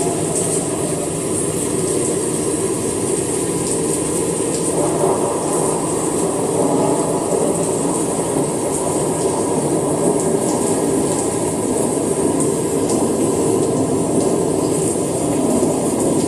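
Rain falling steadily, an even hiss with faint scattered ticks of drops.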